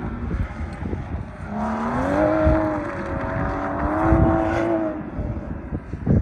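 BMW car engine revving hard during donuts. The engine note climbs about a second and a half in, holds high with a slight wavering pitch, and eases off near the end, with wind buffeting the microphone.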